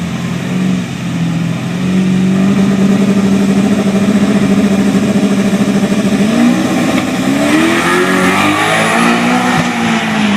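Twin-turbo 370 LSX V8 engine running at a steady pitch, then revving up in two rising sweeps about six and eight seconds in.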